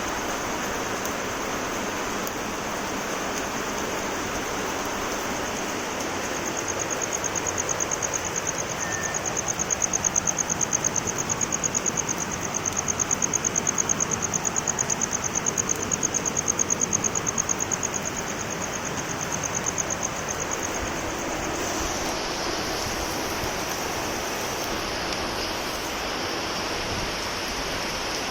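Heavy rain falling steadily. From about six seconds in until about twenty-one seconds, a high, rapidly pulsing buzz rises over it and is the loudest sound.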